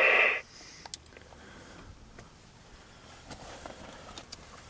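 A loud, steady buzzing tone cuts off about half a second in. It is followed by a few faint clicks of the Jeep's light switches being worked in a quiet cabin.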